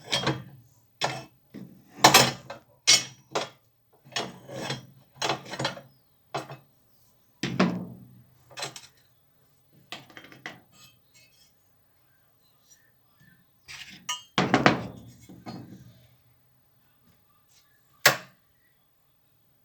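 Metal tools and parts clinking and knocking in an irregular series of sharp strikes, busiest in the first half, with one last sharp strike near the end.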